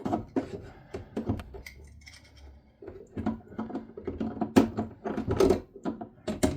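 Irregular clicks, taps and knocks of hand tools and parts being handled while working at the top fittings of an instant hot-water boiler, with the sharpest knocks about four and a half and five and a half seconds in.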